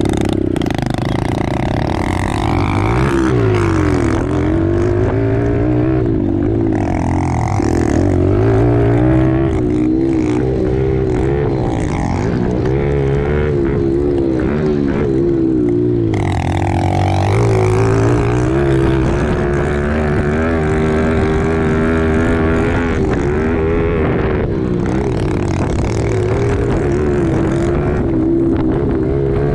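110cc pit bike engines revving hard, the pitch climbing and dropping every second or two as the bikes accelerate, shift and back off through the track.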